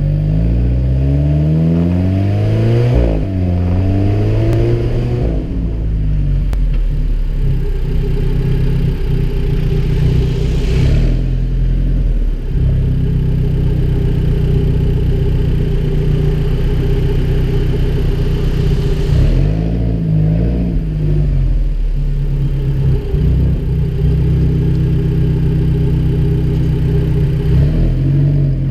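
Alfa Romeo 4C's turbocharged four-cylinder engine pulling away with rising revs, dropping at a gear change about three seconds in and rising again briefly. It then settles into a steady low idle, with a short wobble in the revs around twenty seconds.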